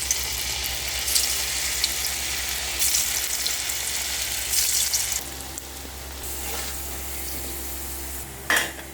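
Cornflour-coated potato strips deep-frying in hot oil: a steady sizzle with a few louder surges. The sizzle turns softer about five seconds in, and a short louder burst comes near the end.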